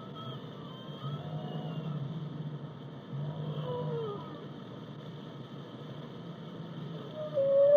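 Whale song: two low moans, then faint higher calls that glide up and down. Near the end a louder, long call near one pitch comes in.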